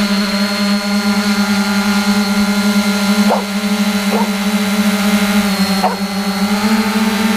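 3DR Iris+ quadcopter's four electric motors and propellers hovering with a steady, loud buzzing hum that wavers slightly in pitch. A dog barks briefly about three times over it.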